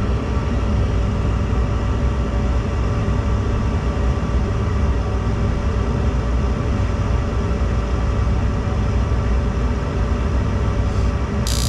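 Gas furnace running with its burners lit after a successful ignition, a steady rumble with a motor hum, the burner orifice freshly cleared of a cobweb. A sudden hiss starts near the end.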